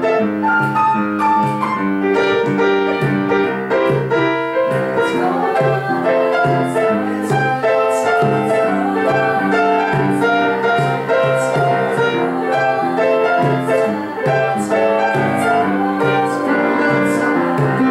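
A snappy little jazz number led by piano, with chords changing in a steady rhythm.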